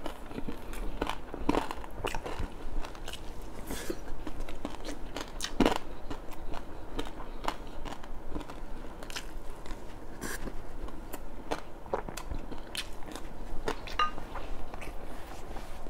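Close-miked chewing and biting of crispy fried red tilapia with rice, with irregular crunches and clicks.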